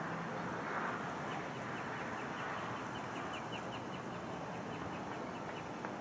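A bird calling in a fast, even run of short, dry, high notes, about five a second, starting a little over a second in, over a steady outdoor background hiss.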